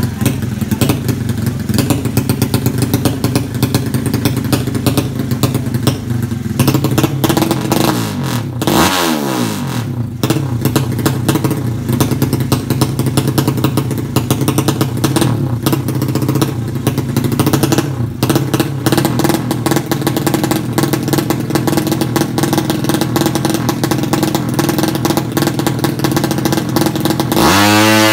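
Drag-bike motorcycle engine running with a rough, clattering beat. About nine seconds in, a pitch sweeps quickly downward, and near the end the sound changes abruptly to a wavering, shifting pitch.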